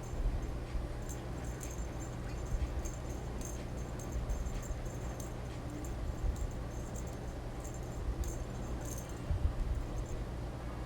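Cat teaser toy rattling and jingling in short, irregular bursts as it is waved about, over a steady low hum.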